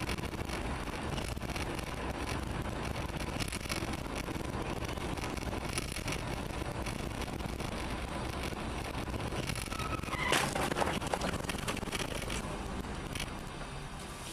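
Steady road and engine noise of a moving car, with a brief louder, higher-pitched sound about ten seconds in.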